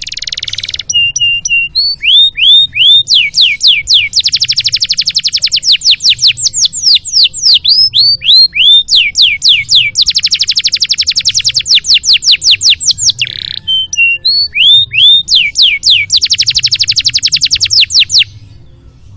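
Domestic canary singing a long, loud, continuous song: fast rolling trills alternating with runs of repeated sweeping chirps. The song breaks off shortly before the end.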